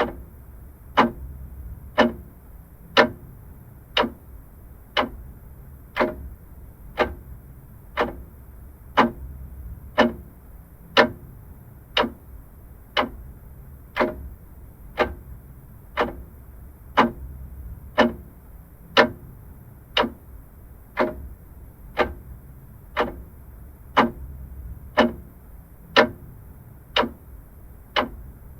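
Vintage clock ticking steadily, one crisp tick a second, evenly spaced.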